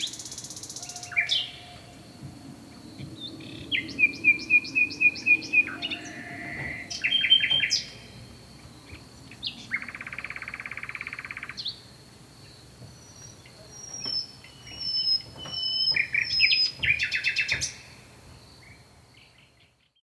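Several birds calling in turn: short chirps, fast repeated trills and a buzzy rattling call, over a faint steady high-pitched whine. It fades out near the end.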